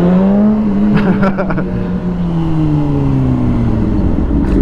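600 cc inline-four sport-bike engines pulling hard under acceleration, then one engine's pitch slowly falls as it eases off, over wind and road noise.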